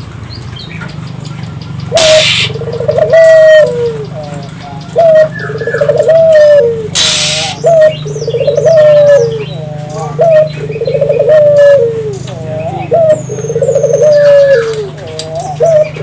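Puter dove calling vigorously: a long run of rolling coos, each breaking into a trill and then falling in pitch, from about two seconds in, with two short bursts of noise among them. Small birds chirp faintly.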